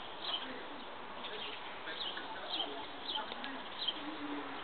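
Birds chirping: a small bird repeats short, high, falling chirps about once or twice a second. A few short, low notes sound beneath them, most clearly near the end.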